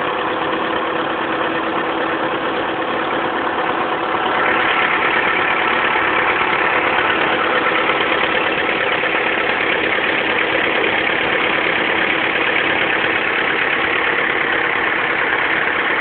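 1974 International 2400A tractor's gas four-cylinder engine running steadily. About four seconds in it gets louder and stays at the higher level.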